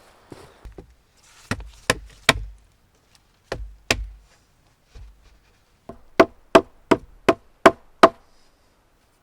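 A hand tool striking timber in a series of sharp wooden knocks: a group of three, then two, then a run of about seven evenly spaced blows near the end, about three a second.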